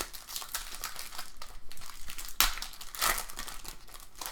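Crinkling and rustling of a foil baseball-card pack wrapper and cards being handled, with a sharp snap about two and a half seconds in.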